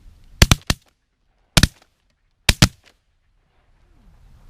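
A volley of shotgun shots at geese: three quick shots, a single shot about a second later, then two more close together.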